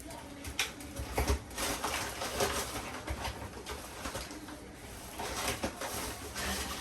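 Fufu dough being stirred and worked in a pot as flour is mixed in: irregular knocks and squelches.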